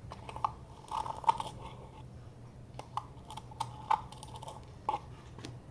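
A scatter of small, irregular clicks and crackles over a faint steady low hum.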